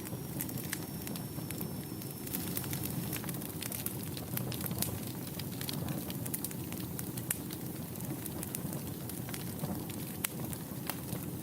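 Wood fire in a fireplace crackling, with frequent irregular sharp pops over a steady low rush of burning.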